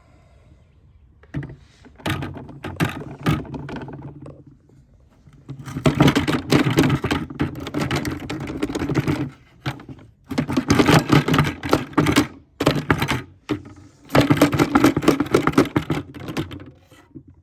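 Dirt and grit rattling and crackling out of a vacuum cleaner's dust canister as it is emptied, in several bursts of rapid clicking with short gaps between them.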